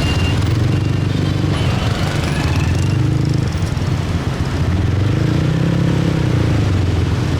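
Motorcycle engine running in dense street traffic, its note swelling and easing as the bike moves through the intersection.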